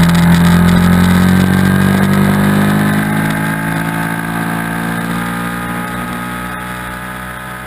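Motorcycle engine heard from a camera mounted on the bike, pulling steadily in gear with its revs slowly rising as it accelerates out of a corner onto a straight; the sound grows gradually quieter.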